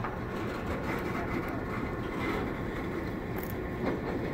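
Slow-moving switching train rolling past: a steady rumble of a tank car's wheels on the rails over the drone of the EMD SW9 switcher's 567B 12-cylinder diesel engine.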